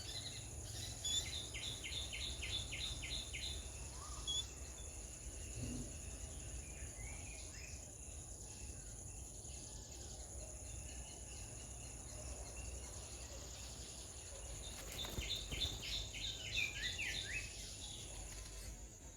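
Outdoor ambience: a steady high-pitched insect drone over a low rumble. Twice, a quick run of short high chirps, about four a second, comes in: once near the start and again about fifteen seconds in.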